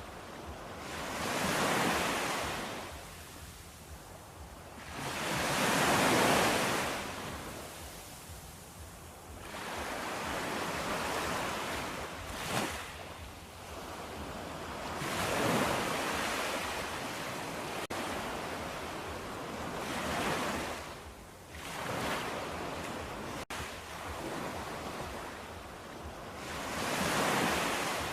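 Ocean surf: waves breaking and washing in, each surge of noise swelling and dying away every few seconds.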